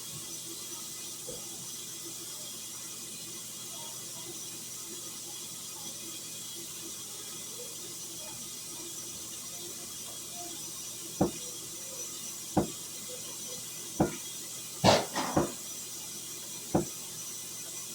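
A faint steady background, then from about eleven seconds in a series of sharp knocks or taps, roughly one every second and a half, the loudest a quick double knock about fifteen seconds in.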